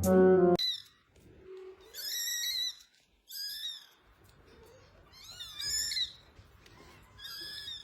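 Tiny kitten mewing: four thin, high-pitched meows, each bending up and down in pitch, with short pauses between them. Background music cuts off just before the first one.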